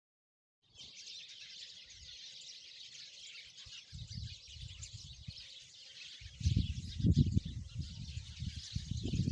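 Sparrows chirping in a dense, unbroken high chatter that starts just under a second in. From about four seconds in, low rumbling thuds come and go, loudest over the last three seconds, and everything cuts off abruptly at the end.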